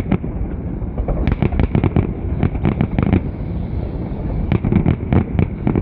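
Fireworks crackling: quick clusters of sharp pops, one run about a second in and another near the end, over a steady low rumble.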